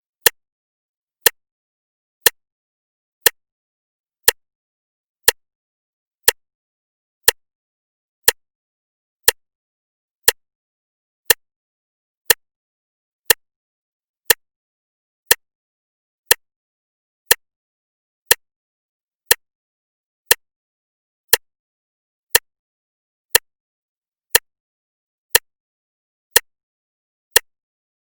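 Clock ticking steadily, one sharp tick a second, evenly spaced, with silence between the ticks.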